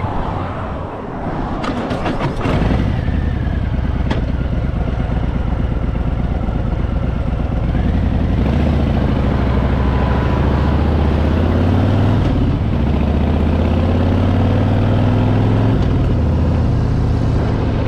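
Motor vehicle engine running and accelerating: its pitch climbs slowly for several seconds, then drops about three-quarters of the way through, as at a gear change. A few sharp clicks and knocks come in the first couple of seconds.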